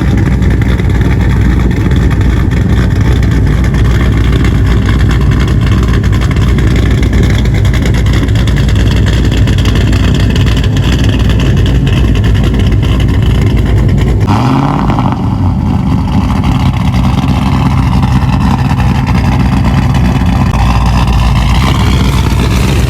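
Loud, steady car engine noise with slow rises and falls in pitch. The sound changes abruptly about fourteen seconds in, as at a cut.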